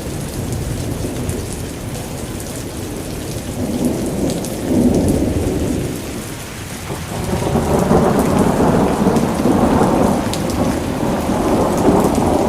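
Thunderstorm: steady rain with deep rolling thunder, the rumble swelling about four seconds in and again, louder and longer, from about seven seconds on, with scattered drop ticks.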